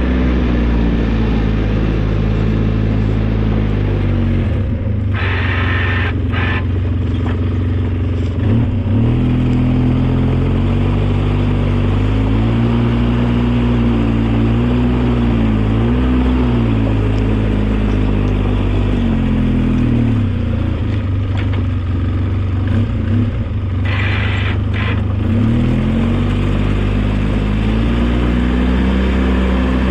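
Engine of an old snowplow vehicle running while plowing, its speed rising and falling again and again as it manoeuvres. Twice a brief higher-pitched noise joins in for a second or so.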